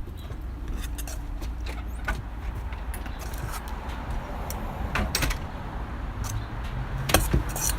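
Bead slime being stirred in a bowl: scattered clicks and taps of the beads and the spoon against the bowl over a steady low rumble, with a cluster of sharper taps about five seconds in and again near the end.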